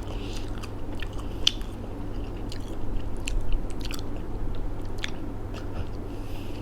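Person chewing crisp fried Korean seaweed snack, with irregular sharp crackles as the sheets break between the teeth.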